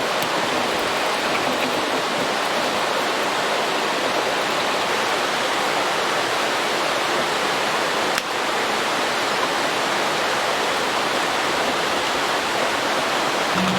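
Steady, even rushing hiss with a single brief click about eight seconds in.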